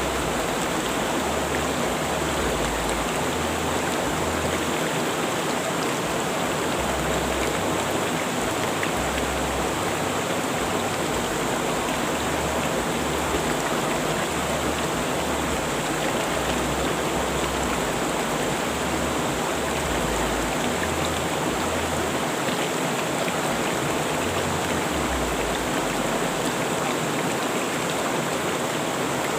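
A river rushing steadily: an even, unbroken wash of flowing water.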